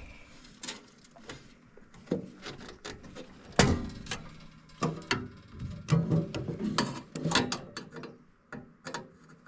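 Screwdriver working at a stubborn screw on a gas furnace, giving irregular sharp clicks and knocks of metal, the loudest a single sharp knock about three and a half seconds in.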